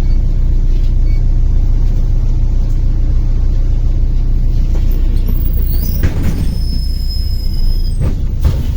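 Interior of a MAZ-105 articulated city bus pulling away from a stop: a steady low engine drone with cabin rattles, a couple of knocks, and a thin high squeal lasting a few seconds in the second half.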